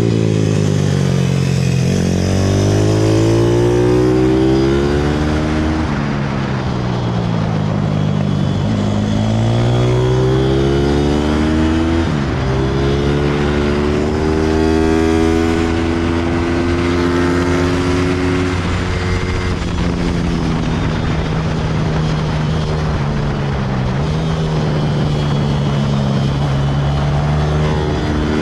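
160cc single-cylinder four-stroke pit bike engine being ridden hard around a track, its pitch repeatedly climbing under acceleration and dropping off for corners and shifts. It holds a steadier note through the middle and latter part, then climbs again near the end.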